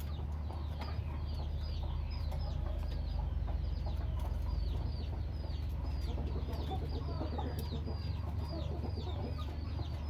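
Small bird, the one called chichi mao, giving a long rapid series of short, sharp downward chirps, about three a second, over a steady low hum.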